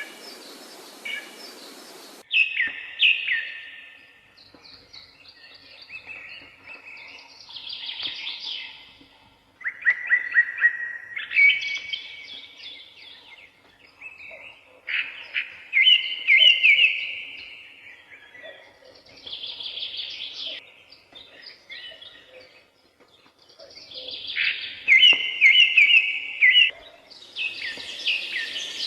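Songbirds singing in woodland: a series of short, fast trilled phrases a few seconds apart, with softer chirps from other birds between them. A steady background hiss cuts off abruptly about two seconds in.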